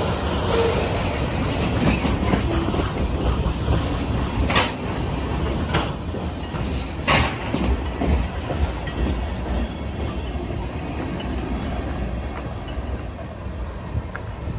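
Freight cars of a CPKC mixed freight train rolling past, a steady rumble with a few sharp clanks of wheels and couplers, easing off slightly toward the end.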